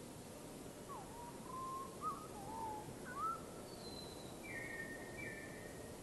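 A songbird whistling a short phrase of slow notes that glide up and down, then two higher flat notes near the end, over a steady background hiss.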